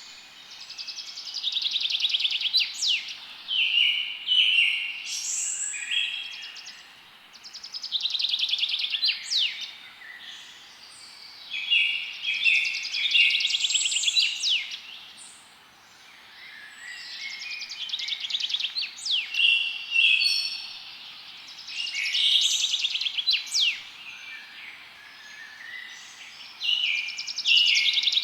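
A songbird singing, each song a phrase of rapid trills and quick whistled sweeps, repeated every five or six seconds over a faint steady hiss.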